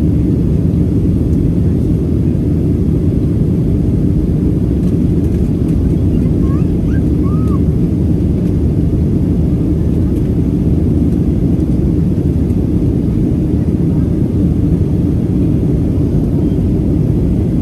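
Steady cabin noise inside a Boeing 737-700 airliner: an even, constant low rush of engines and airflow. A couple of faint short chirps sound about halfway through.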